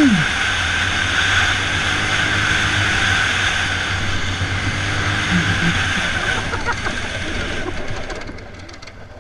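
Motorcycle engine running steadily with heavy rushing noise on the microphone, dropping off about eight seconds in.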